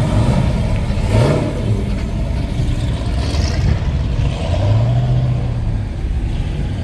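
Car engine revving briefly about a second in, then running at a steady low pitch, over general outdoor noise.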